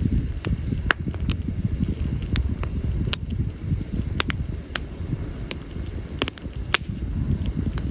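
Wood campfire burning and crackling, with sharp pops at irregular intervals over a low, steady rumble.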